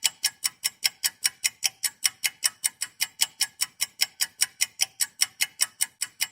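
Fast, even, clock-like ticking, about five ticks a second.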